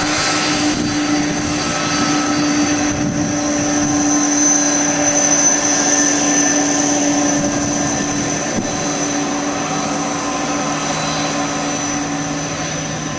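Aircraft turbine engines running steadily, a high whine over a low hum.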